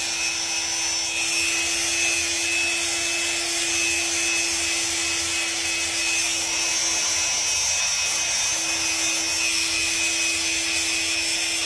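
Dremel rotary tool running at a steady high speed, grinding and smoothing a parrot's toenail, with one steady tone that breaks briefly about eight seconds in.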